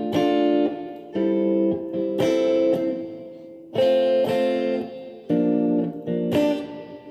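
Guitar playing a run of barre chords, each chord struck and left to ring, moving to a new chord about every one to two seconds.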